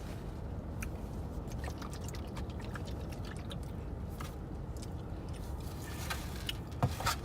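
Close-miked eating: chewing and mouth clicks over a steady low rumble, with a sharper knock near the end.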